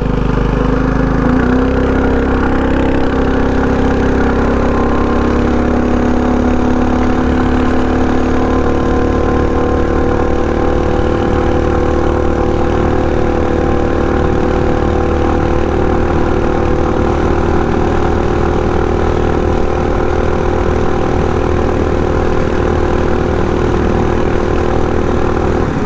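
Predator 224cc single-cylinder four-stroke engine of a mini bike running under way. Its pitch rises a little about a second in, then holds steady at a near-constant cruising speed.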